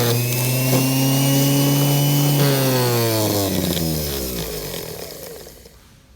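An electric motor whining at a steady high speed, then winding down in pitch to a stop about two and a half seconds in, as when its power is cut.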